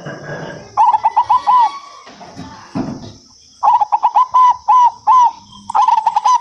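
Zebra dove (perkutut) cooing: three runs of quick, clipped notes separated by short pauses, the last run starting shortly before the end and carrying on.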